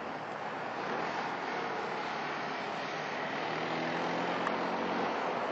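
Approaching double-deck electric passenger train: a steady rushing rumble of wheels on rails that grows slowly louder, with a low steady hum joining in about three and a half seconds in.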